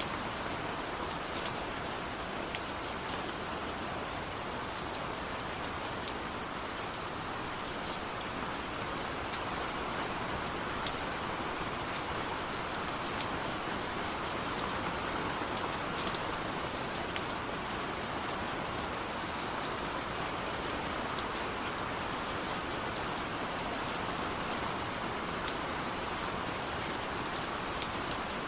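Steady rain falling, an even hiss with scattered sharp drop ticks, and no thunder.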